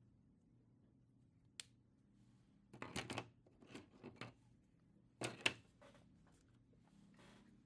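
Faint strokes of a drawing tool scratching across paper in short bursts, with one sharp click a little before them.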